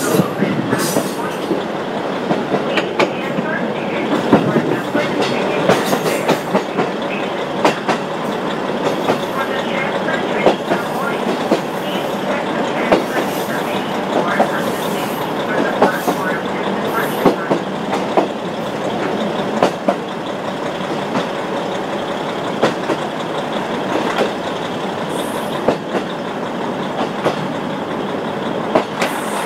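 KiHa 40 diesel railcar running at speed, heard through an open window: a steady rumble of wheels on rail, with many sharp clicks as the wheels cross rail joints.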